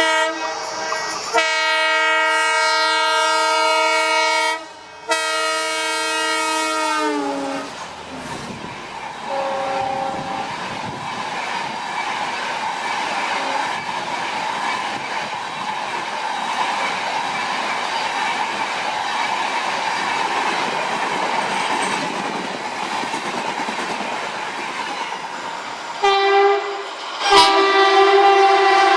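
Indian Railways train horn sounding two long blasts, the second sliding down in pitch as it ends, followed by the steady noise of the train running on the track. Near the end the horn sounds again in two more blasts.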